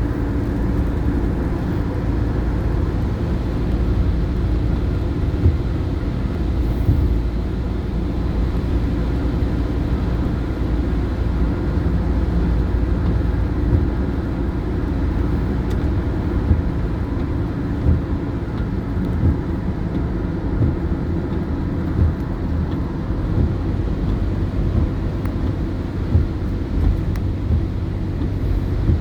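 A motor vehicle running: a steady low rumble with small irregular bumps.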